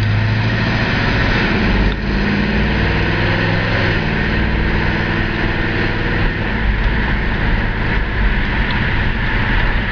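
1970 Chevelle SS's big-block V8 pulling away from a stop, its pitch climbing and then dropping back at gear changes about two and four seconds in, over steady road noise.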